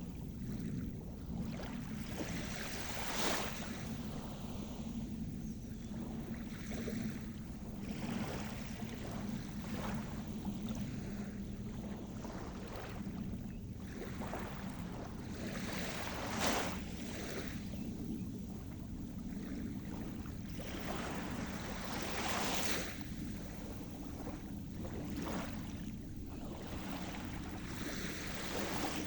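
Sea surf: a steady low rumble with waves breaking and washing in every few seconds, one sharper crash a little past the middle.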